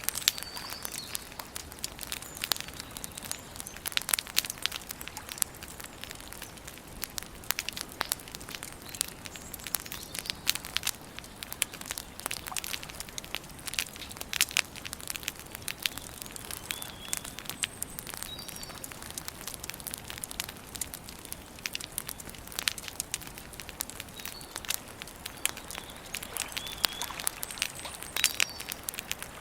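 Campfire crackling and popping steadily, with many sharp snaps from the burning wood. A few short bird chirps come through now and then.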